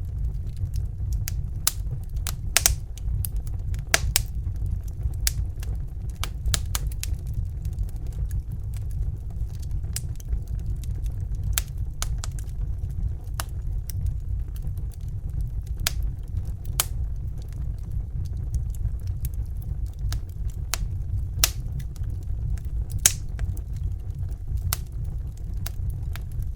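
Crackling fire: irregular sharp snaps and pops, a few louder than the rest, over a steady low rumble.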